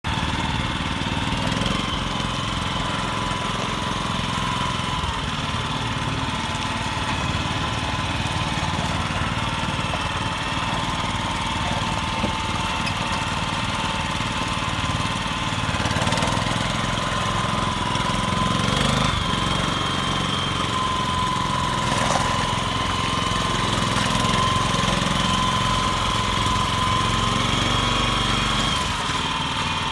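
Gasoline tank truck's engine running steadily at idle, with a steady high whine over the low rumble.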